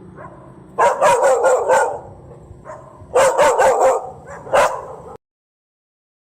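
Dog barking in two quick runs of four or five barks, then a single bark, cutting off abruptly about five seconds in.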